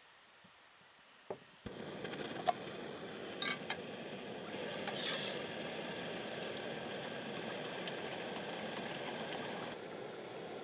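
A pot of water heating toward the boil on a camp stove gives a steady hiss that starts suddenly about two seconds in. A few light clicks come soon after the hiss starts.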